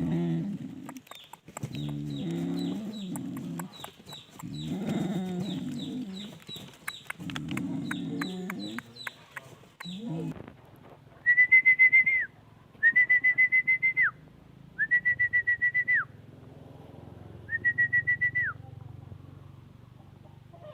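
Dogs growling and grumbling at each other in play: a run of low, rough growls with scuffling clicks for about ten seconds. Then four short, high, trilled calls, each lasting about a second, like a bird calling.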